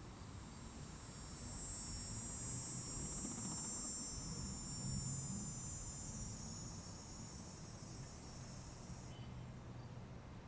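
High, steady insect buzzing that swells over the first few seconds and stops abruptly about nine seconds in, over a faint low hum.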